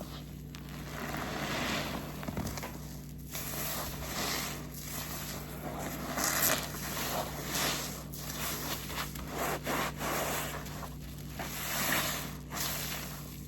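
Car-wash waffle sponge soaked with detergent being squeezed and wrung by hand, making wet, squelching, rubbing noise that swells and fades with each squeeze.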